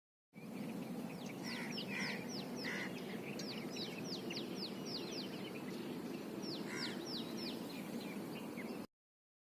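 Birds calling: a long series of short, high whistles that each sweep downward in pitch, several a second, over a steady low background noise. It starts and cuts off abruptly.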